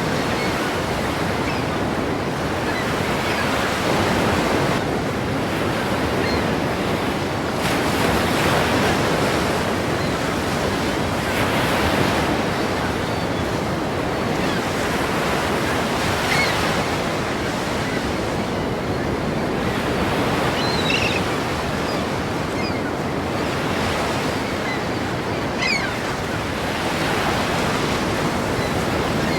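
Ocean surf: waves breaking and washing in continuously, with louder surges every few seconds.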